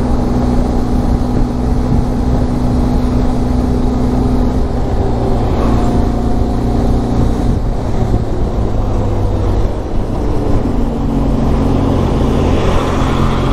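Benelli TRK 502X parallel-twin motorcycle engine running steadily under way, with wind rush. The engine note shifts pitch partway through, dips briefly about ten seconds in, then settles at a new pitch, as the throttle changes through the ghat road's bends.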